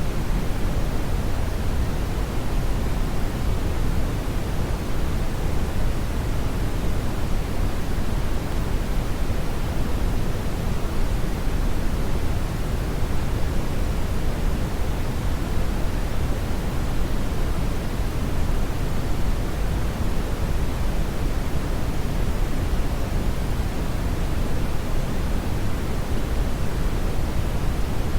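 Brown noise: a steady, even rumbling hiss, strongest in the bass and falling off toward the highs, unchanging throughout.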